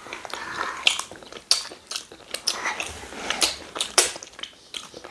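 A person chewing and eating rice and goat-meat stew close to the microphone: a string of irregular short mouth clicks and smacks.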